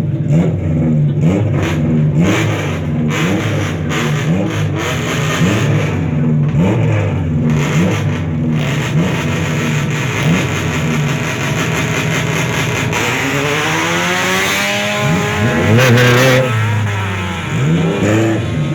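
Honda Civic FD1's 1.8-litre four-cylinder through a full aftermarket exhaust system, first revving in repeated short blips. About two-thirds of the way in it launches with a long rising rev, shifts up, climbs again and pulls away, fading near the end.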